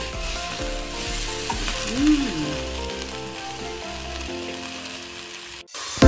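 Bitter mustard greens sizzling as they stir-fry in oil in a pan, with the spatula clicking and scraping against the pan as it stirs. The sound cuts out suddenly near the end.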